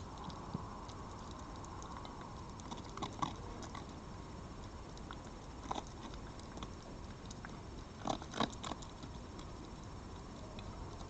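An animal at the feeding spot, moving or eating close to the microphone: scattered soft clicks and taps, with a small cluster about eight seconds in, over a steady background hiss.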